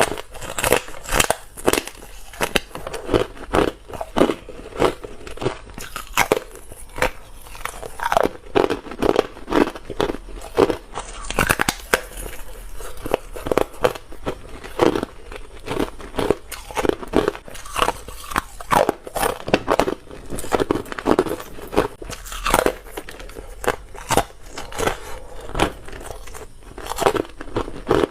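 Ice being bitten and crunched, a steady run of sharp crunches following one another, often several a second.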